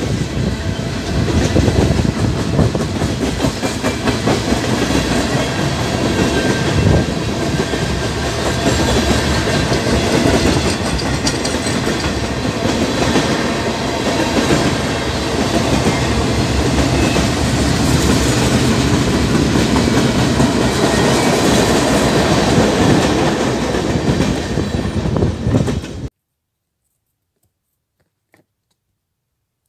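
Freight cars of a Union Pacific manifest train (tank cars, boxcars and lumber-loaded flatcars) rolling past at close range, a steady loud clatter of steel wheels on the rails. It cuts off abruptly about 26 seconds in, leaving near silence.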